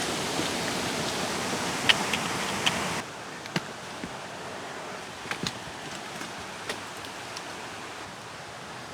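Rushing stream water, a steady hiss that drops abruptly in level about three seconds in, with a few small clicks and knocks over it.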